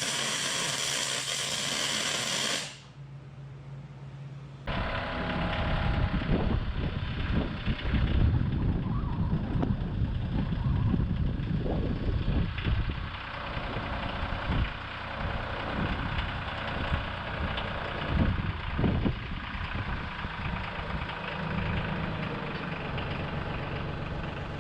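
A steady hiss cuts off about three seconds in. After a short quieter gap, a vehicle engine runs with a deep, uneven rumble and irregular surges of power, as under load on a climb.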